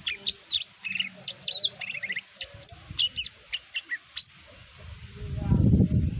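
Cucak ijo mini (green leafbird) singing a fast run of sharp chirps and whistled notes for about four seconds. Near the end a louder low rushing noise builds up.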